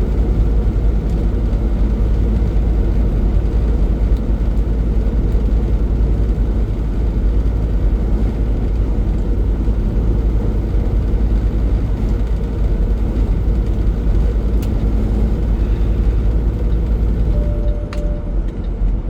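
Semi-truck heard from inside the cab while driving on the highway: a steady, loud drone of engine and road noise, with a short beep near the end.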